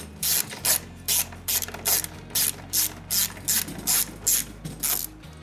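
Socket ratchet clicking in quick back-and-forth strokes, about three rasping bursts a second, as bolts on a motorcycle's lower fairing are loosened.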